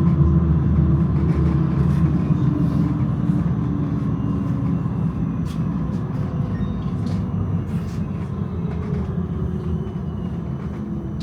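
Tram running on its rails, heard from on board: a steady low rumble of wheels and motors that slowly eases off, with a few faint clicks.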